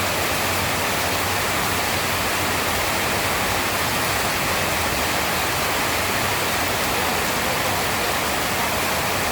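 Steady rain, an even, dense hiss.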